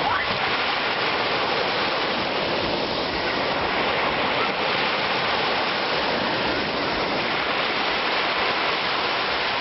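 Black Sea surf washing onto the beach in a steady, continuous rush of water.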